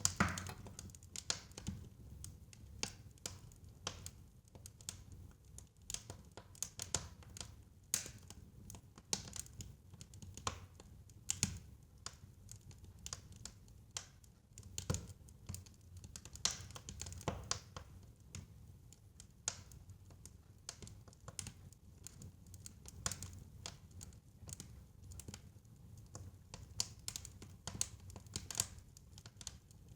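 Fireplace fire crackling: irregular sharp snaps and pops, a few louder than the rest, over a steady low rumble of the flames.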